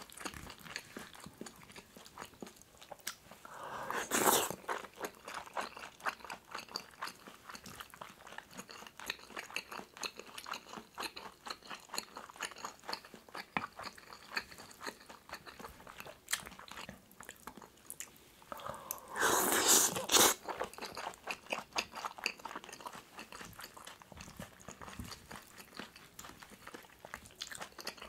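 Close-miked eating sounds: chewing and wet mouth clicks from a mouthful of kimchi stew mixed with egg and seasoned laver. Two louder noisy bursts, about four seconds in and again around twenty seconds in, stand out over the steady chewing.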